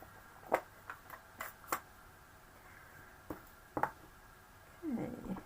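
Light, irregular clicks and taps of rubber-stamping supplies, such as an ink pad, stamp and acrylic block, being handled on a desk. A short low sound falls in pitch near the end.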